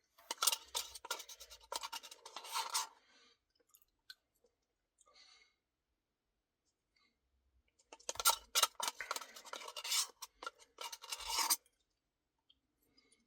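Close-miked eating sounds from a cookie dough Blizzard: two spells of dense scratching and crackling, each about three seconds long, the second starting about eight seconds in.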